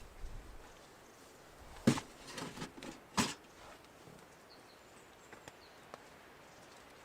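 Pieces of firewood knocking: two sharp knocks a little over a second apart with softer knocks between them, then a few faint ticks.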